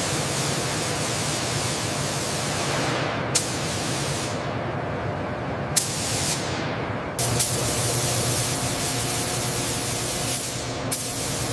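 Spray gun hissing steadily as it applies a coating. The spray cuts out briefly and starts again sharply about four times.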